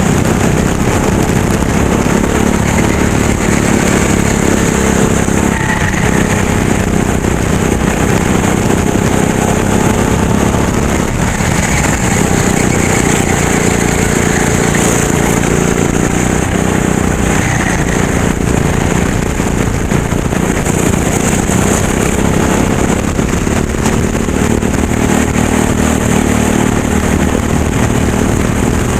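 Racing kart engine running hard through a lap; its pitch keeps rising and dropping as the kart accelerates and slows for corners.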